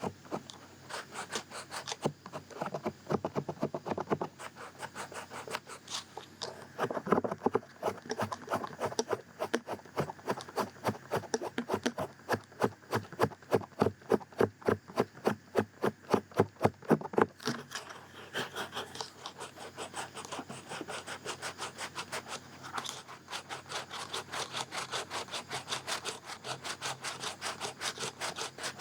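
Close-miked ASMR ear scratching: quick, even scratching strokes over the ear, about four to five a second. The strokes are loudest through the middle and lighter and softer for the last ten seconds or so.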